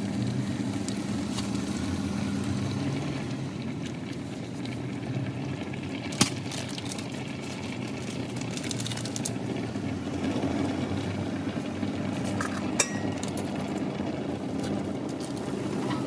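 Steady low background rumble with two sharp clinks, one about six seconds in and one near thirteen seconds.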